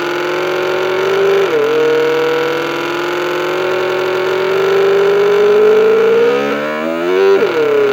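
Homemade electronic motorcycle-engine sound generator playing through a small 800 mW amplifier into a wooden box enclosure, giving a buzzy, engine-like drone. The drone holds a steady pitch with a short dip about a second and a half in. Near the end its pitch rises like a rev and then falls back.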